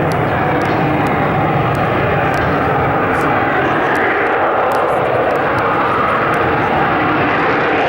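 F-35A Lightning II's single afterburning turbofan jet engine running loud overhead as the jet flies its display. A steady roar, with a higher whine in it that rises about halfway through and then falls away, as in a pass.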